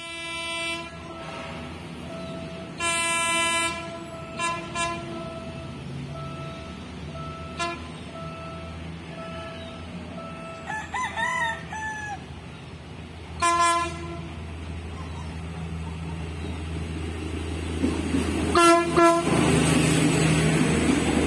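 INKA diesel multiple unit commuter train sounding its horn in several short blasts as it approaches, then passing close by with a rising rumble of engine and wheels in the last few seconds. A rooster crows once about halfway through.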